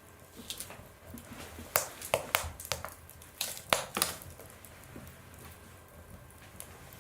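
Wood fire crackling in an oven or fireplace: a low steady hiss with a quick run of sharp pops and cracks in the middle, then a few faint ticks.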